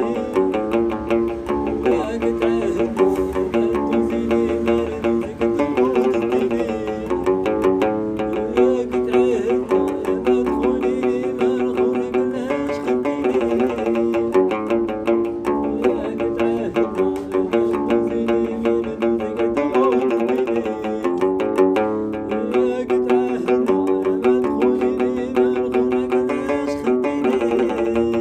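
Instrumental background music led by a plucked string instrument playing a quick, busy melody.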